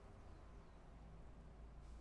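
Near silence: a faint, steady low rumble, with a faint high falling chirp about a third of a second in and a short click near the end.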